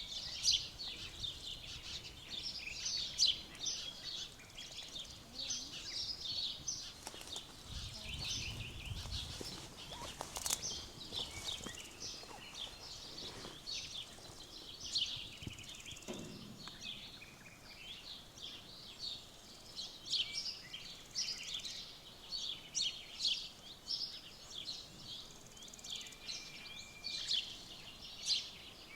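A dense chorus of small songbirds singing outdoors, many quick chirps and trills overlapping without a break, with a brief low rumble about eight seconds in.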